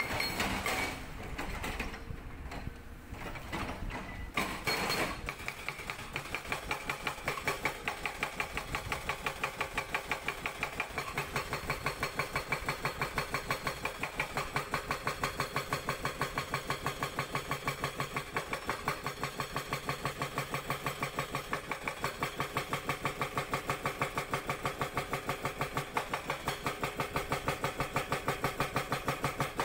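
Sangdo SD220 hydraulic breaker on a Cat 320D excavator hammering rock, over the excavator's diesel engine. The first few seconds are uneven; from about five seconds in the breaker strikes in a steady rapid rhythm of several blows a second.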